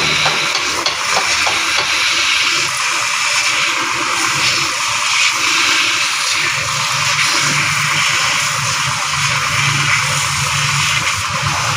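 Steady hiss of a water jet spraying, with a low steady hum coming in about halfway through.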